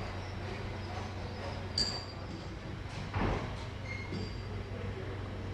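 Railway platform ambience: a steady low hum, with a sharp metallic clink about two seconds in and a short knock a little after three seconds.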